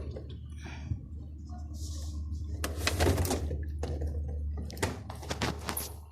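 Household handling noises: a few sharp knocks and short rustling scrapes over a steady low hum.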